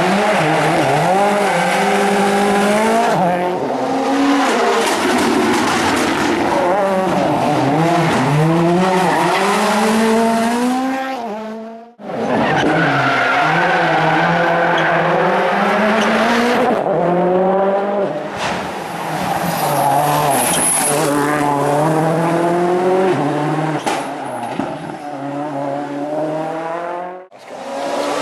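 Rally cars at full effort on a special stage, engines revving hard and falling back over and over with gear changes and lifts. The sound breaks off sharply twice, about twelve seconds in and near the end, where one car's run gives way to the next.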